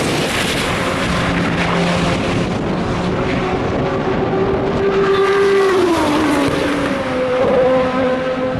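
Endurance racing cars running on track, several engine notes overlapping. One held engine note falls steeply in pitch about six seconds in, and another rises and holds near the end.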